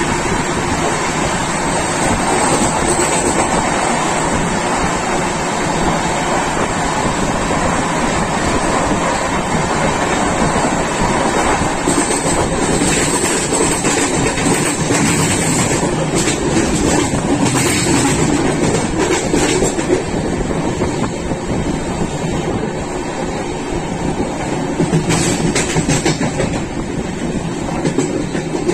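Steady noise of a passenger train running at speed, heard from on board: the carriage's rumble and rushing air, with brief clicks of the wheels over rail joints now and then.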